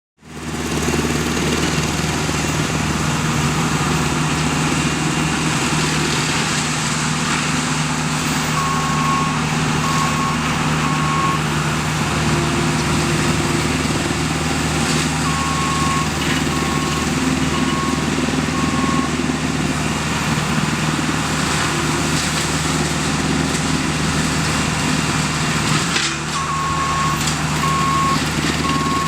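JCB skid steer loader running steadily under load with its forestry cutting head attachment. A reversing alarm beeps in three short runs of evenly spaced beeps, about 9, 15 and 26 seconds in, and there are a few brief sharp cracks.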